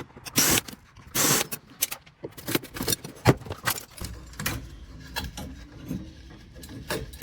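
Metal parts and tools clicking and rattling as a Rheem continuous hot water heater is pulled apart by hand. Two longer scraping rasps come in the first two seconds, followed by scattered knocks and clinks.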